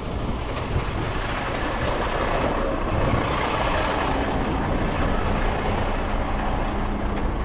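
A heavy truck engine running steadily, with a broad hiss that swells in the middle and eases off.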